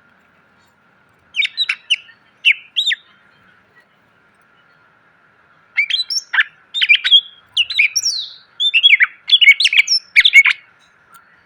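Green leafbird (cucak ijo) singing: a short burst of quick whistled and chipping notes, then after a pause a longer run of rapid, varied phrases with sweeping whistles and sharp chips.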